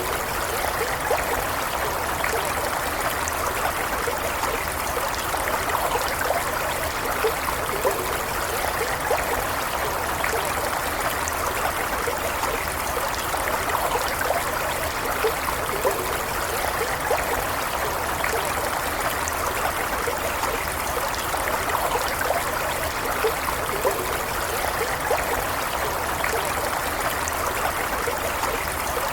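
Stream water flowing steadily over stones, an even rush with small trickling and gurgling splashes throughout.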